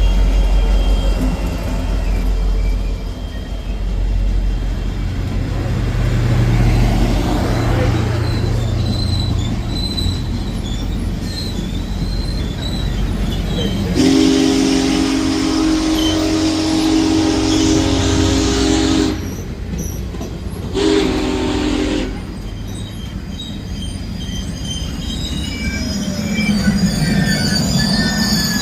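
Union Pacific Big Boy steam locomotive arriving with its train: a heavy low rumble, then a long chime-whistle blast about halfway through and a short second blast a couple of seconds later. Near the end come high wheel and brake squeals as the train slows to a stop.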